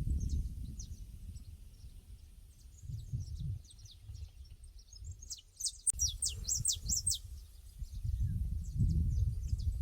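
Small birds chirping in quick, short downward notes, with a brief dense run of louder chirps a little past the middle, over a low gusting rumble of wind on the microphone that swells at the start and again near the end.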